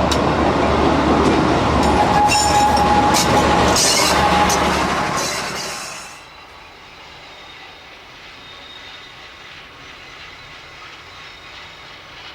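Train on the Diakofto–Kalavryta rack railway running past, rattling, with a steady wheel squeal from about two to four and a half seconds in. About six seconds in the loud sound cuts off suddenly, leaving a quieter steady noise.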